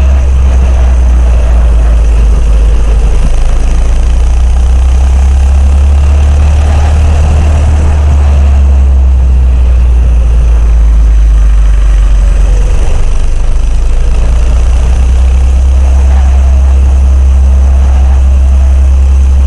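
Coleman CC100X minibike's small single-cylinder engine running steadily under way, with a loud, constant low hum.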